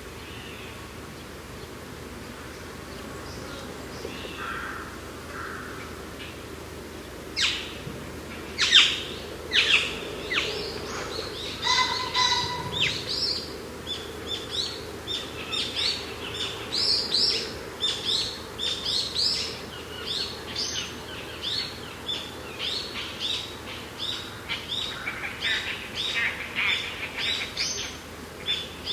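Birds chirping over a steady wind. The chirps begin about a quarter of the way in and soon become a quick, almost unbroken run of short falling notes.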